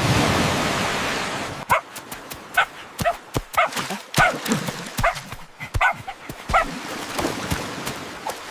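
A loud rushing noise fades over the first second and a half. Then a small dog gives a rapid string of short yips and whimpers, about two a second.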